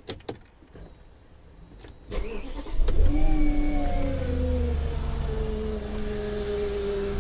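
Audi 4.2 V8 engine starting: the starter cranks about two seconds in, the engine catches a second later at a fast idle, and the idle then slowly falls and steadies. This is the first start after its intake manifold was cleaned and refitted to cure a rattle.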